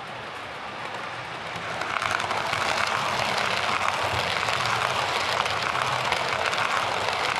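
OO gauge Lima Class 117 DMU model with a CD motor conversion running along the track: a steady motor whir and rattle of wheels on rail, getting louder about two seconds in.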